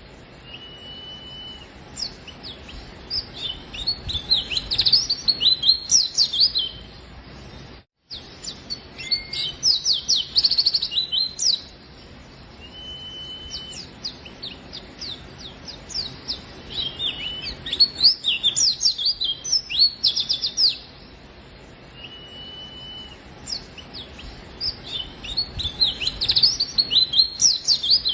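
A pleci (white-eye) in full 'gacor' song: rapid bursts of high, twittering chirps, broken by short pauses, with a brief steady whistled note three times.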